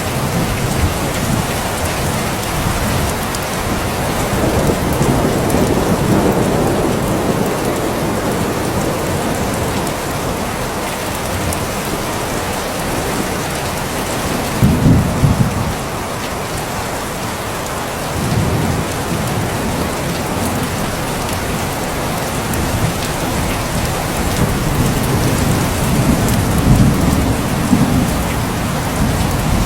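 Steady rain falling, with low rolls of thunder rumbling under it several times; the loudest comes about halfway through.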